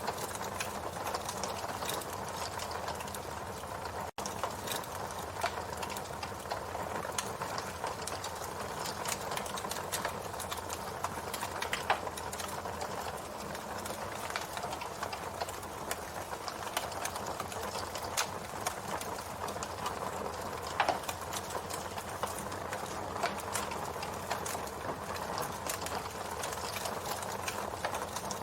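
Campfire burning, with a steady hiss and continual crackling and scattered louder pops, the sharpest about twelve and twenty-one seconds in. The sound drops out for an instant about four seconds in.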